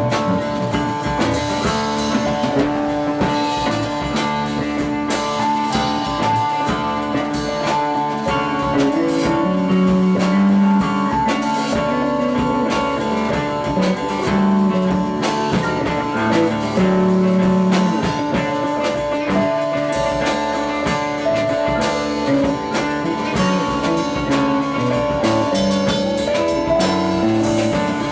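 Live band playing an instrumental passage of a song: electric guitar over a drum kit, with no singing.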